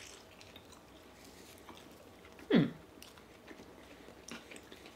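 Quiet chewing of soft, doughy baked biscuit balls stuffed with melted string cheese, with small wet mouth clicks. About halfway through comes a short hummed "mm" falling in pitch, the loudest sound.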